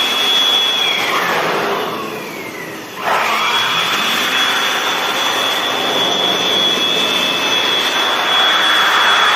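High-speed electric blower motor running with a steady high whine and a rush of air, used to blow dust out of a split AC in a dry service. About a second in it eases off and its pitch falls, then at about three seconds it comes back up to full speed.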